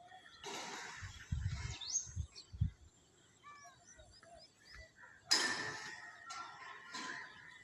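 Small birds chirping outdoors, many short rising and falling calls, with two louder bursts of rustling noise, one near the start and one about two-thirds of the way in, and a few low thuds early on.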